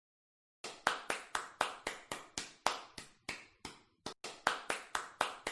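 Sharp taps in a steady, even rhythm, about four a second, starting after about half a second of silence.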